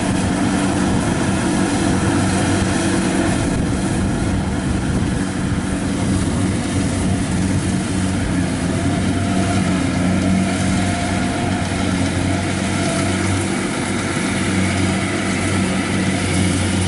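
Kubota 70 combine harvester running steadily in the rice field, a constant diesel engine drone with machinery noise.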